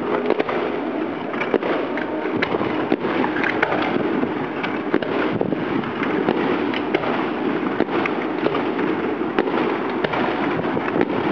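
Aerial firework shells bursting in quick succession: a dense run of sharp bangs and crackling with no break.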